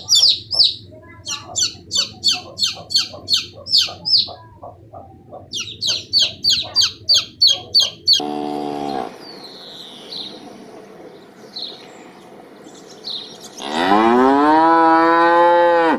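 Rapid high-pitched bird chirping, about three chirps a second, for the first half, then a short pitched animal call and a few faint chirps. Near the end a cow gives one long, loud moo that rises in pitch.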